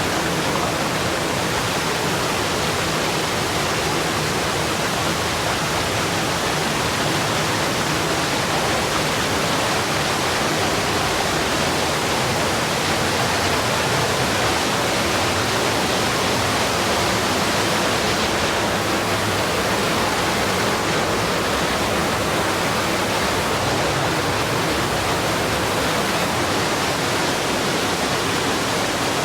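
Waterfall in a slot canyon rushing: a loud, steady noise of falling water that does not change.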